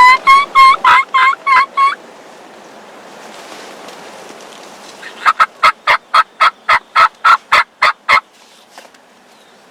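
Turkey yelping: a series of about eight clear, evenly spaced yelps, then after a pause of about three seconds a longer, raspier series of about a dozen yelps at roughly four a second.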